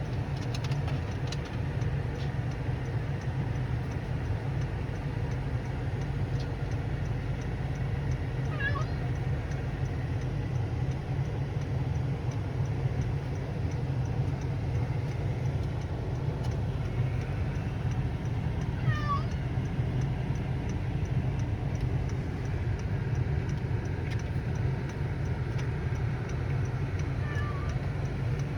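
A few faint, brief, high meows from a cat, about three over the stretch, each a short falling glide. Under them runs a steady low rumble.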